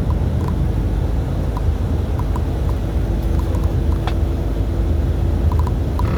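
Steady low rumble of a truck running down the road, with faint light ticks scattered through it.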